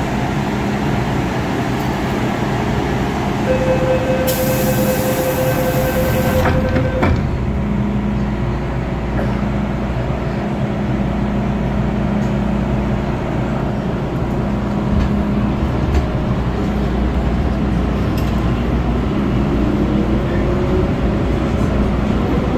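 Hong Kong MTR M-Train electric multiple unit on the move, with its traction motors whining over the steady running noise. A held tone and a burst of hiss come a few seconds in, and near the end the whine rises in pitch as the train gathers speed.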